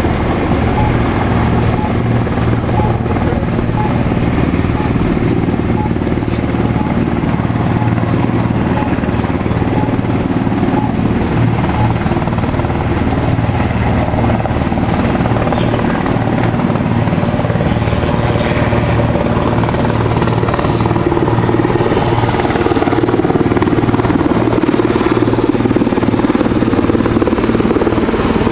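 Helicopter flying, a steady rotor beat over a low engine drone that grows a little louder in the last few seconds.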